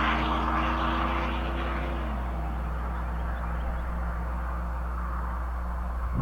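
A 1999 Chevrolet Silverado's 5.3L V8 exhaust running through a chambered Cherry Bomb muffler. The engine note drops suddenly in pitch about two seconds in and then holds steady at the lower pitch over a constant low rumble. A brief thump comes at the very end.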